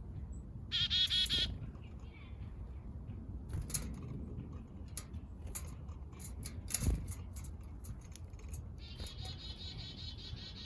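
Small backyard songbirds calling: a short buzzy call about a second in, and a longer, rapidly pulsing buzzy call near the end. Scattered sharp clicks fall between the calls, over a low steady rumble.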